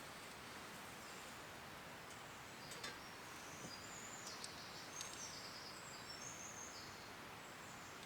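Faint, steady outdoor hiss with a scatter of short, high-pitched bird chirps in the middle, and a couple of light clicks.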